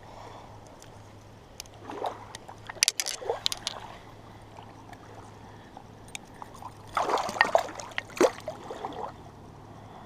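Water splashing and sloshing in short bursts, once about two seconds in and again around seven seconds in, as a hooked trout is handled at the water's edge.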